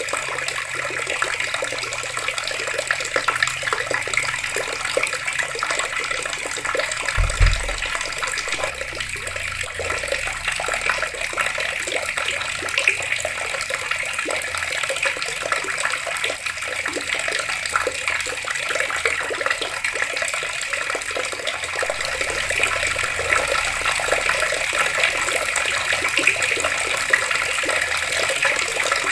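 Water running steadily from taps and splashing down, an even rushing sound. A brief low thump about seven seconds in.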